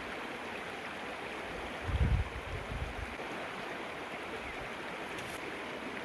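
Stream water rushing steadily. About two seconds in, a short cluster of low thumps.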